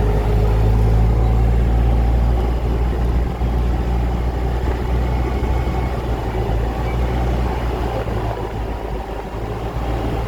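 Amusement park train running along its track, heard from a passenger car as a steady, heavy low rumble that eases slightly a few seconds in.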